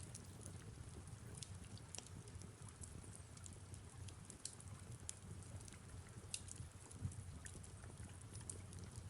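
Faint fireplace and rain ambience: irregular sharp crackles and pops of burning wood over a low steady rumble and a soft hiss of rain.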